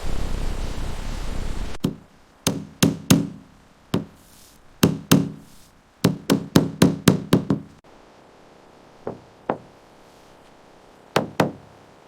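A steady rushing noise cuts off abruptly, followed by a hammer knocking on timber in uneven groups. The knocks include a quick run of about eight strokes and two separate pairs near the end.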